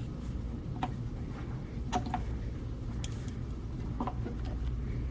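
A few scattered light clicks and knocks over a low, steady room hum.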